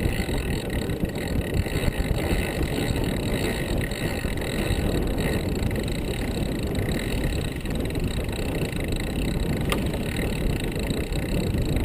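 Steady rushing, rumbling noise aboard a sailing yacht under way: wind on the microphone and water along the hull, with a single brief click near the end.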